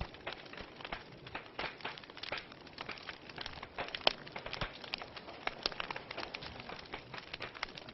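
Wood fire in a fireplace, logs crackling and popping in quick irregular snaps over a soft hiss, with a louder pop about four seconds in.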